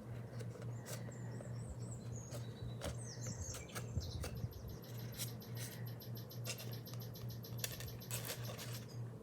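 Light clicks, taps and scratches from handling metal snap-button charms, over a steady low hum. Faint high bird chirps come in about one and three seconds in.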